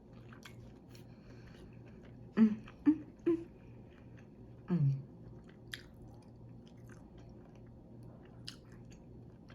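Close-miked chewing of a mouthful of ham, with a few short voiced 'mm' sounds about halfway through and occasional sharp mouth clicks, over a low steady hum.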